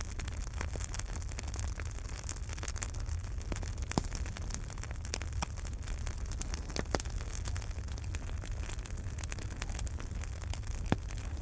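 Wood fire in a fireplace crackling, with a steady run of small pops and a few sharper snaps about four, seven and eleven seconds in, over a low rumble.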